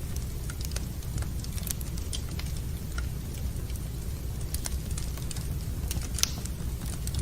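Wood fire burning in a fireplace, crackling with irregular sharp pops, one stronger pop about six seconds in, over a steady low rumble.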